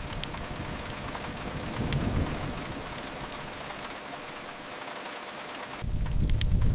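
Steady rain hiss with a few sharp fire crackles. A low rumble swells briefly about two seconds in, then a louder low rumble with more crackling comes in suddenly near the end.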